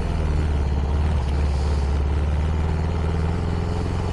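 CFMoto 300NK's single-cylinder engine running steadily at low revs through its stock exhaust.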